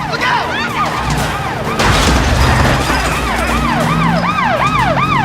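Police car sirens in a yelp pattern, fast rising-and-falling wails repeating about twice a second. Several overlap at first, then one settles into a steady train. Under them is a loud low rumble, with a surge of noise about two seconds in, mixed with film score music.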